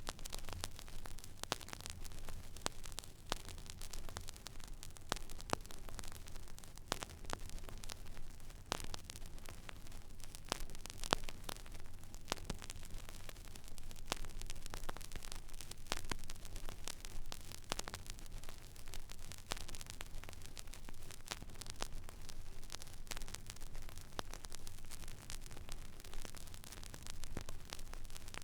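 Vinyl record surface noise from a stylus tracking an empty groove: a steady hiss scattered with irregular clicks and crackles, over a low hum.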